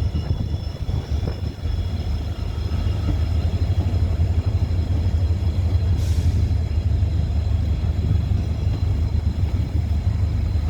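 Passenger train hauled by a WDP4 diesel locomotive rumbling steadily as it pulls into the station. There is a brief hiss about six seconds in.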